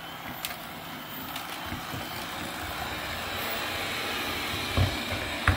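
Lubluelu robot vacuum running, a steady whooshing motor noise that grows slightly louder, with a click early on and a few low thumps near the end.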